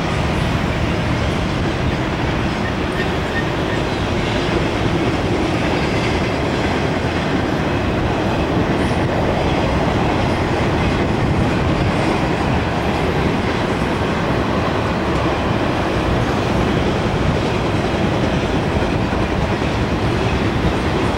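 Intermodal freight train of flatcars carrying highway trailers rolling past: the steady, unbroken noise of steel wheels running on rail as car after car goes by.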